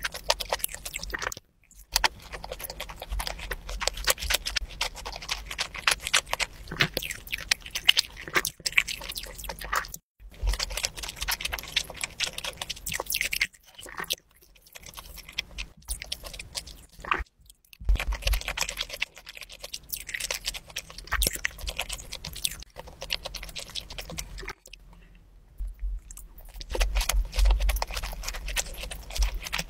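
Close-miked mouth sounds of a person eating sushi and sashimi: soft wet chewing with fast small clicks and smacks. The sound stops for a moment several times.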